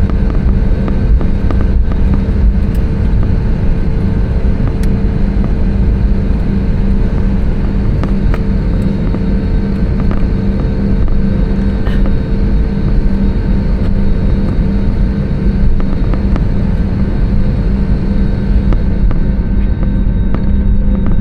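Airbus A320neo cabin noise: a loud, steady rumble of the jet engines and airflow with a constant hum.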